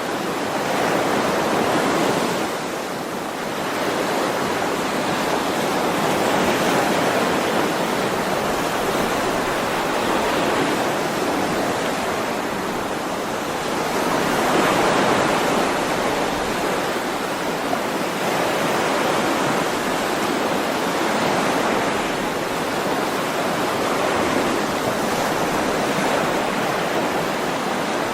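Ocean waves breaking and washing on a shore: a continuous surf rush that swells and eases every few seconds.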